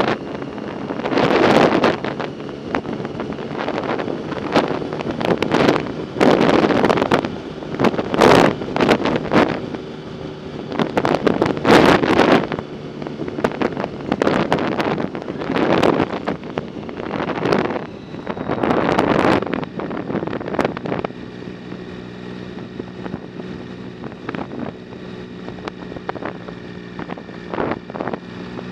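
Wind buffeting the microphone of a moving rider in repeated gusts, with a steady low hum running underneath that is plainer near the end.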